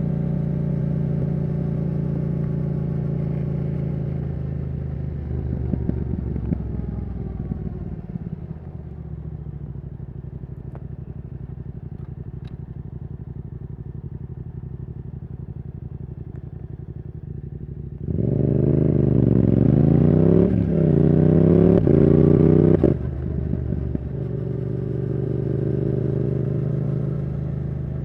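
Yamaha R7's CP2 parallel-twin through a Yoshimura R77 exhaust. The bike cruises steadily, then slows to a lower, quieter run for about ten seconds. Then comes a hard, loud acceleration, the revs climbing and dropping back at two upshifts, until the throttle shuts off suddenly and the engine settles into a steady cruise.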